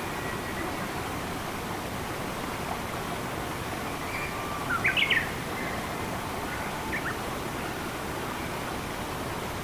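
Steady rush of flowing water with birds chirping over it: a quick cluster of rising chirps about halfway through, the loudest thing here, and a single short chirp about two seconds later.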